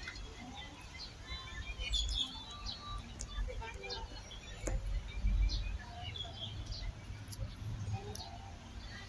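Small birds chirping, many short scattered calls, over a low background rumble.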